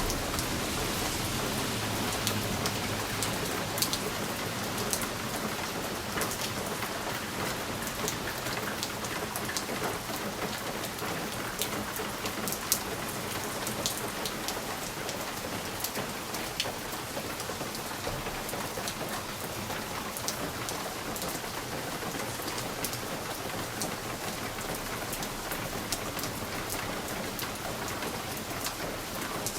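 Steady rain pattering on a window pane: an even hiss with many sharp ticks of single drops striking the glass, and a low rumble in the first few seconds.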